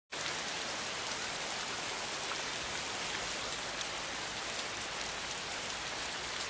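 Steady rain falling: an even, dense hiss with faint scattered drop ticks, starting abruptly.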